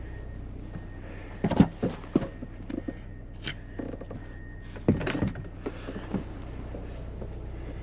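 Wooden cabin panels knocking and thudding as they are handled and stacked, in two clusters of knocks about a second and a half in and again near the five-second mark, over a steady low engine hum.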